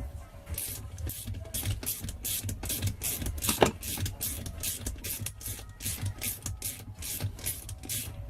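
Hand file rasping back and forth on the scooter's engine casing in quick even strokes, about three a second, with one harder stroke a little past the middle, cutting a relief so the stator wires clear the flywheel.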